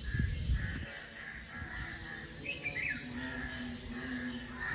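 Birds chirping and calling in the early morning, with a short falling call about halfway through. Low thumps in the first second.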